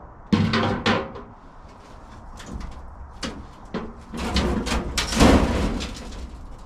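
Knocks and clunks from handling metal parts and tools: two sharp knocks about half a second and a second in, then scattered clicks, then a louder stretch of rattling and scraping peaking about five seconds in.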